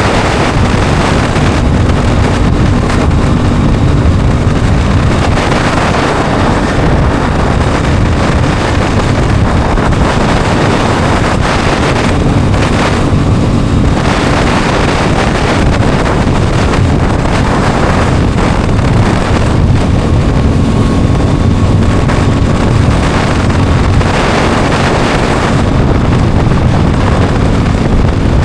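Aprilia Tuono 660's parallel-twin engine running steadily under way, mixed with heavy wind rush on the microphone.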